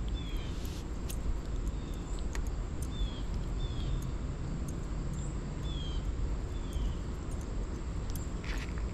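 Outdoor ambience at the water: a steady low rumble, with a bird repeating short, high, downslurred chirps about once a second and a few faint clicks.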